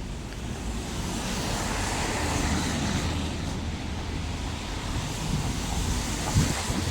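Car on a wet road: a steady low rumble with tyre hiss that swells about two to three seconds in.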